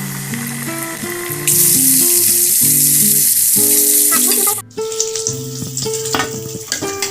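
Chicken in batter sizzling as it fries in hot oil, loudest from about a second and a half in until it cuts off sharply past four and a half seconds, then quieter sizzling. Background music plays throughout.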